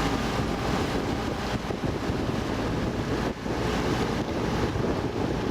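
Motorboat water taxi under way: its engine running, with water rushing past the hull and wind buffeting the microphone. A brief dip in the noise a little past halfway.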